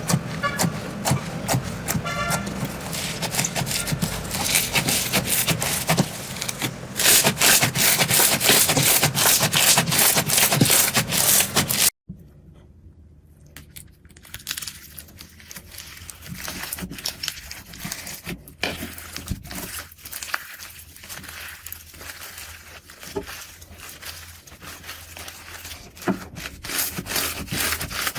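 Slime being squeezed and pressed by hand, making dense crackling and popping clicks that grow loudest just before an abrupt cut about twelve seconds in. After the cut, a different slime makes quieter, sparser sticky clicks and squelches.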